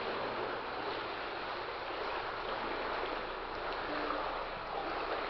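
Steady sloshing and splashing of legs wading through knee-deep water in a flooded tunnel.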